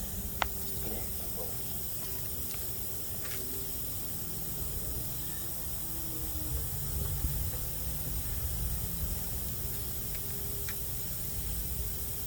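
Compressed air hissing steadily, with a low rumble underneath; a single sharp click sounds just after the start.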